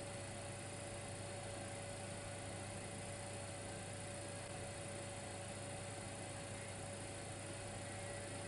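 Steady electrical hum with an even hiss from a Dimplex electric fireplace heater running, a single high tone held throughout.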